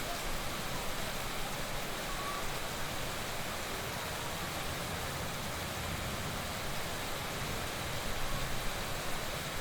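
Heavy rain falling steadily, an even hiss without pauses or single drops standing out.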